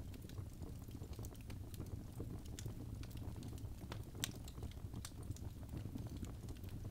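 Birch logs burning in a fireplace: a steady low rumble of flames with scattered sharp crackles and pops, the loudest about four seconds in.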